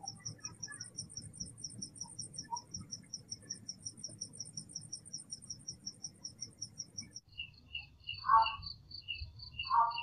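Night crickets chirping in a steady rhythm, high and fast at first, then switching abruptly about seven seconds in to a lower, slower chirp. A faint low rumble lies underneath, and two short, louder sounds come near the end.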